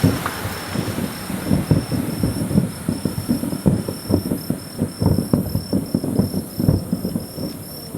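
Distant fireworks going off in rapid succession, many low booms and thuds overlapping into a rolling rumble. Behind them an insect chirps steadily in short, even pulses.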